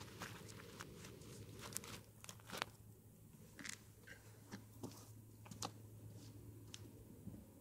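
Near silence: a faint steady low hum with scattered small clicks and ticks, the sharpest about two and a half seconds in.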